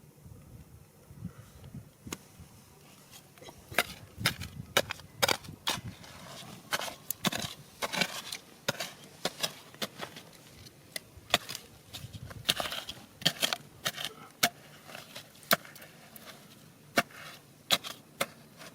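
A digging tool striking and scraping stones and gravel in a rocky riverbed: sharp, irregular knocks, several a second at times, starting about three and a half seconds in.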